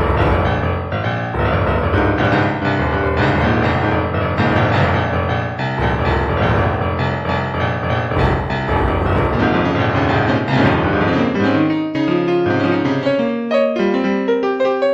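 Background music with a piano: a full arrangement with a strong bass line, which thins about twelve seconds in to piano notes alone.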